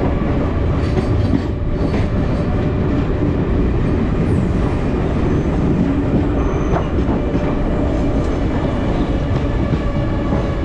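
A passenger express train running on the rails as it pulls out of a station, heard at an open coach door. There is a loud, steady rumble of wheels and track with a faint steady whine above it.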